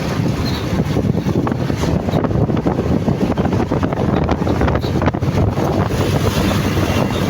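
Loud, steady wind buffeting the microphone while riding a motorcycle, with the motorcycle's running engine and road noise underneath.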